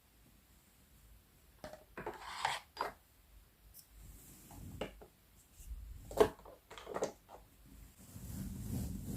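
Objects being handled: scattered light knocks and taps with brief scraping or rubbing, starting about one and a half seconds in after a near-quiet start.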